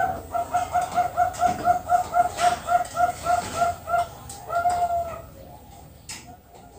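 Zebra dove (perkutut, Bangkok strain) singing: a fast run of short, evenly spaced cooing notes, about four a second, that ends in a longer drawn-out note.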